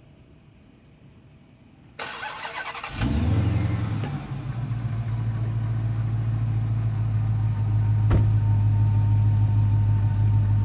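2019 Dodge Challenger Hellcat's supercharged 6.2-litre Hemi V8 starting: the starter cranks about two seconds in, the engine catches about a second later and settles into a steady, loud idle.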